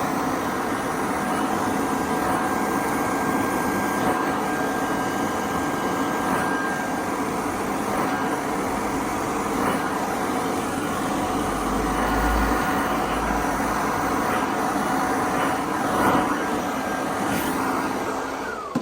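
Electric motor of a power tool running steadily with a constant whine, then switched off near the end and spinning down with a falling pitch.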